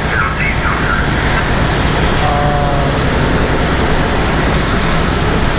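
Semi-truck running at highway speed: a steady engine drone under road and tyre noise, heard from inside the cab.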